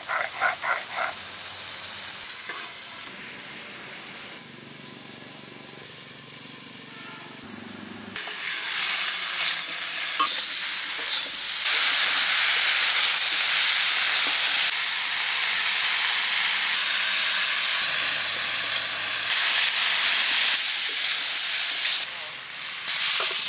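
Turmeric-coated cauliflower florets sizzling as they fry in a kadai, being stirred and tossed. The sizzling becomes much louder about eight seconds in and stays steady.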